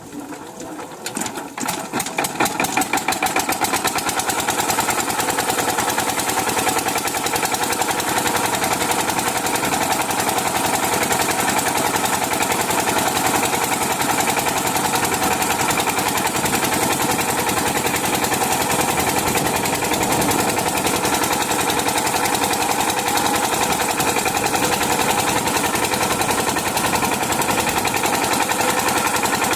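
Diesel engine of an irrigation water pump set catching and picking up speed over the first few seconds, its firing pulses getting faster and louder, then running steadily at speed with a rapid, even knock.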